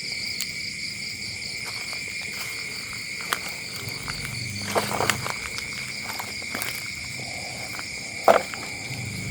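Steady high insect chirring, pulsing in the first couple of seconds, with a few sharp clicks and taps over it, the loudest near the end.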